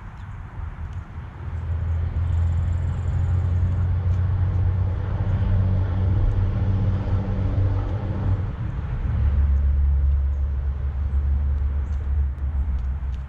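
Low engine rumble of a motor vehicle, swelling about a second and a half in and shifting lower around nine seconds in.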